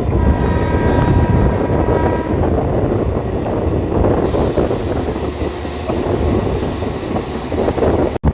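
Passenger train running along the track: a loud, steady rumble and rush of noise. A faint high tone is held for about the first two seconds, and the sound drops out sharply for an instant near the end.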